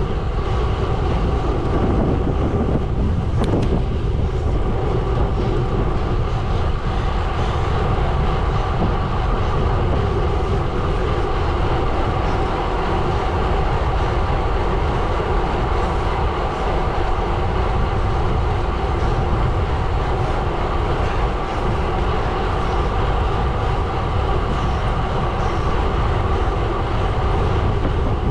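Gravel bike tyres rolling steadily over a gravel road, a continuous crunching hiss with a heavy wind rumble on the microphone.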